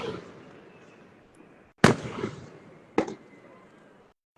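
Aerial fireworks bursting: a sharp bang about two seconds in, trailing off in a rumbling echo, then a second bang about a second later.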